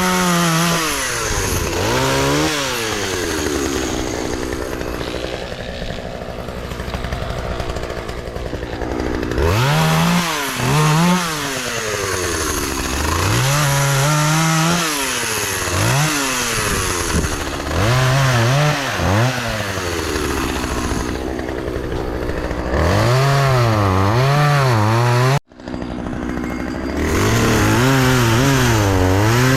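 Poulan Pro two-stroke gas chainsaw with a freshly fitted chain, revving up and bogging down again and again as it cuts through a fallen softwood tree trunk. The sound breaks off for an instant about 25 seconds in.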